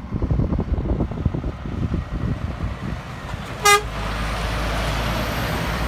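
A truck gives one short, loud blast of its horn about three and a half seconds in. The passing truck's engine and tyres then rush by as a steady noise.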